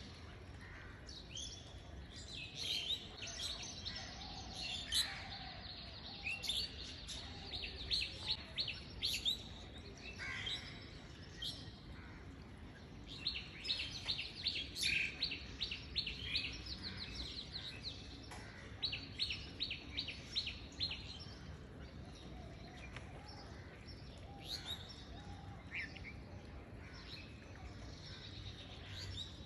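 Small birds chirping in rapid, twittering trills, busiest in two long spells over the first two thirds and sparser near the end, over a low steady background noise.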